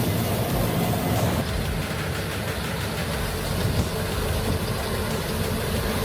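Heavy harvest machinery engines running steadily, a continuous low mechanical rumble that shifts in character about a second and a half in.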